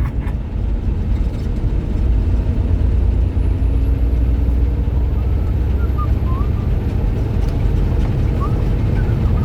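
Road and engine noise inside a moving car's cabin: a steady low rumble, with a faint humming tone in the middle.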